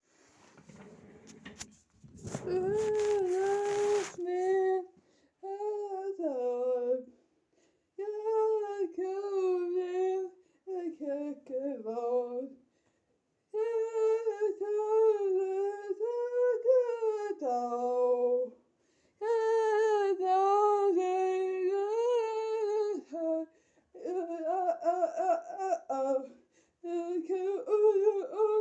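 A high voice humming or singing a wordless tune in held notes, phrases of a few seconds separated by short breaths. A brief rustling noise near the start.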